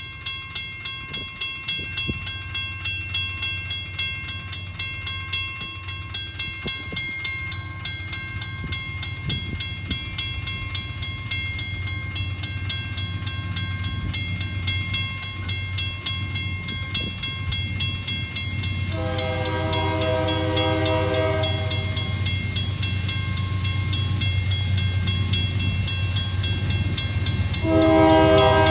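Railroad crossing bell ringing steadily while a diesel freight train's rumble slowly grows louder as it approaches. The locomotive's air horn sounds twice, a long blast a little past the middle and another near the end.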